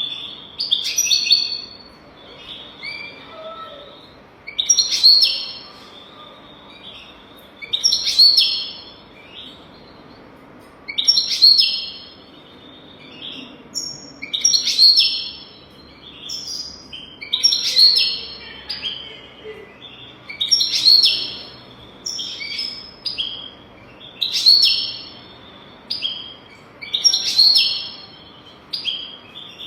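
European goldfinch song: short phrases of rapid, twittering high notes, about nine phrases each a second or so long, repeating roughly every three seconds. A tutor song of the kind played to teach young goldfinches to sing.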